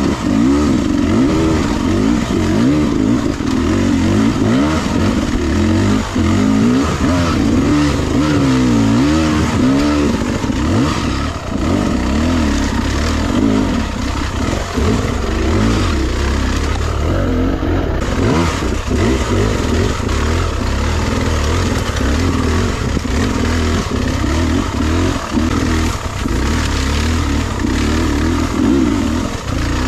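Beta 300RR two-stroke dirt bike engine under way, the revs rising and falling constantly as it is ridden.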